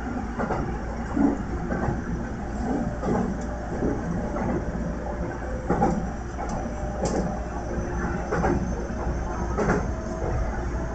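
Keihan 13000-series electric train running along the track, heard from inside the front cab: a steady rolling rumble with irregular sharp clacks as the wheels pass over the rails.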